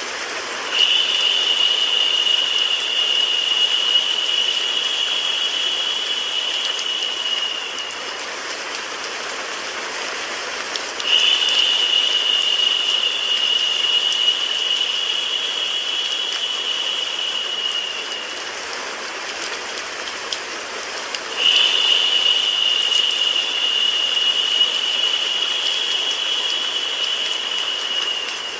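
Steady rain-like white noise with a high, steady buzzing tone laid over it three times, each lasting about seven seconds and starting abruptly, about ten seconds apart.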